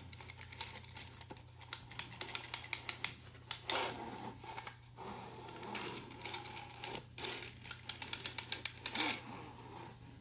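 3D-printed flatbed knitting machine knitting courses: the carriage is run across the needle bed, its needles and latches making rapid clicking, with two runs of fast clicks and quieter clatter between.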